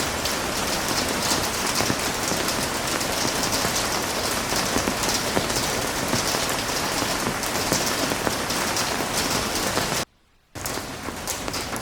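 Heavy rain falling, a dense steady patter of drops. About ten seconds in, the sound cuts out completely for half a second, then comes back a little quieter: a splice between recordings.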